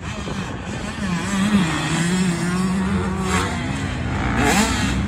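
GasGas MC125 two-stroke motocross bike engine running hard on the track, its pitch rising and falling as the rider works the throttle, with a sharp rev rising near the end.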